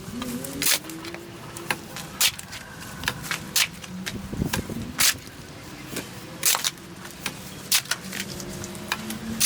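Irregular sharp clicks and knocks, roughly one or two a second, over faint low tones.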